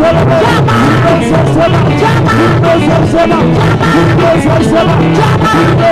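Live gospel band music with a steady beat and bright percussion, with some singing.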